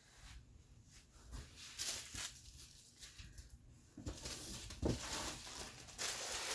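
Rustling and crinkling of clothes and packaging being handled: a few short bursts, then steadier, louder rustling over the last couple of seconds.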